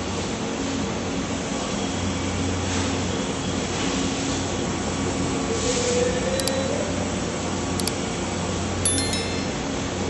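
Robot cotton candy machine running: a steady motor and fan whir with a low hum. A few short high clinks or beeps come in the last few seconds.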